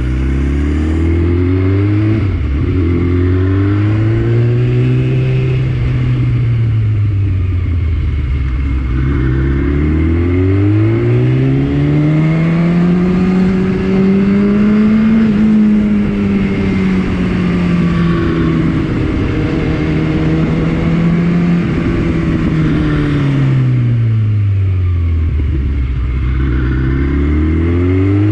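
Superbike engine running through an aftermarket Akrapovič exhaust, its revs climbing and falling slowly several times. The longest climb comes about ten seconds in and holds at its highest for several seconds, before the revs drop again about two-thirds of the way through and start to climb once more near the end.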